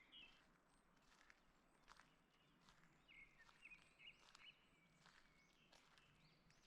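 Faint forest birdsong: short chirps and brief trilling phrases recurring every second or two. Soft footsteps on a forest path fall at a walking pace beneath them.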